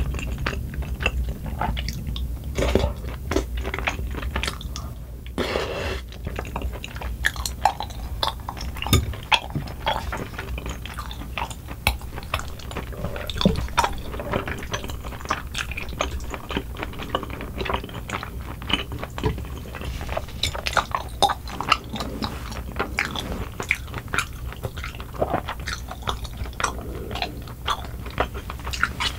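Close-up mouth sounds of chewing soft, chewy rice cakes in cream sauce: wet smacks and many small clicks as the mouth works. Now and then a spoon or chopsticks clink lightly against the glass bowl.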